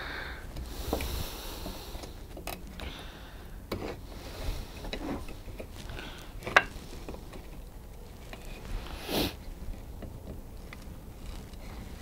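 Handling sounds of a wooden beehive frame and its wax foundation sheet being worked by hand: scattered light clicks and taps with short rustles, the sharpest click about six and a half seconds in.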